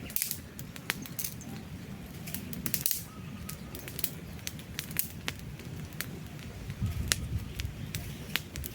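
Wood campfire crackling, with sharp pops and snaps of burning logs at irregular moments over a low steady rumble of the flames.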